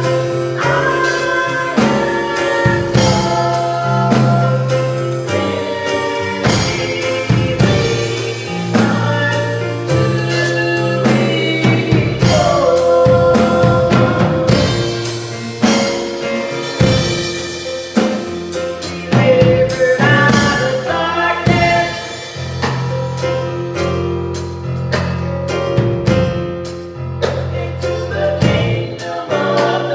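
Gospel song: voices singing over a band, with a drum kit keeping a steady beat.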